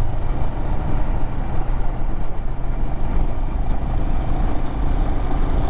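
Adventure motorcycle engine running steadily while riding along.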